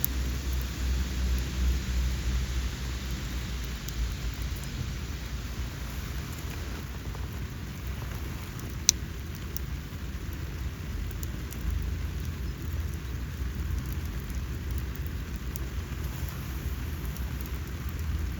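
Steady rain falling, with a low rumble underneath and one sharp click about nine seconds in.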